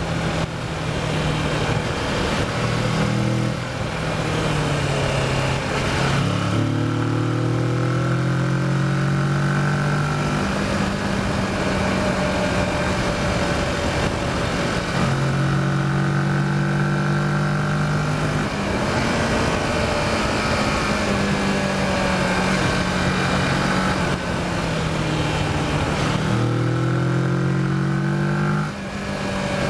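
Kawasaki Versys motorcycle engine pulling hard between corners, its pitch climbing and then dropping sharply with each gear change, about a third of the way in and again near the end, with steadier, lighter running in between.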